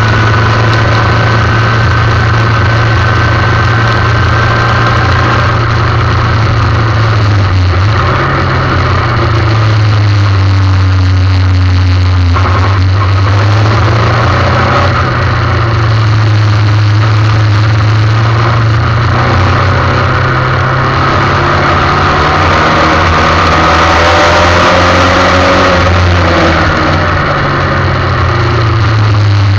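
Formula 1600 race car's engine heard on board, its revs rising and falling slowly over several seconds at a time between steadier stretches, over a steady hiss.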